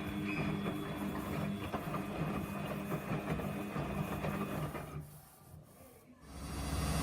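Samsung washing machine's drum motor running with a steady whirring hum, stopping about five seconds in, then starting again with a louder, deeper hum near the end.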